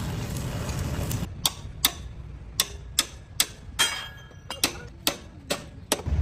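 A steady noise cuts off about a second in, followed by about ten sharp, irregularly spaced clicks or taps.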